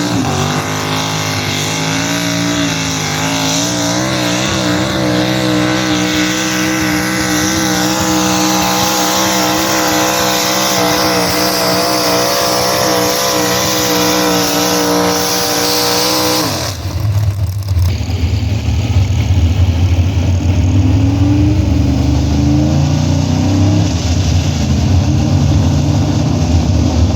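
Engine of a pulling truck or tractor revving up and held at high, steady revs during a pull. About 16 seconds in it breaks off suddenly, and a deeper engine runs with some rising revs.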